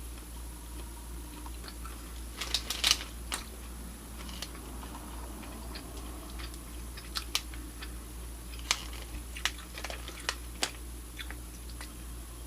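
Quiet handling and eating noises while a piece of smoked beef jerky is tasted: scattered sharp clicks, with a cluster of louder crackles about two and a half seconds in, over a steady low hum.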